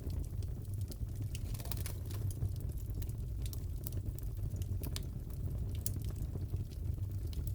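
Crackling wood fire in a fireplace: a steady low rumble of flames with sharp crackles scattered irregularly through it.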